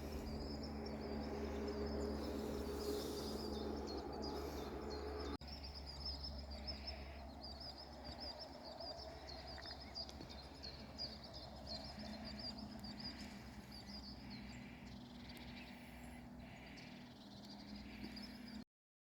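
Birds chirping and singing in a forest at dawn, over a steady low rumble; the sound changes abruptly about five seconds in and cuts off suddenly near the end.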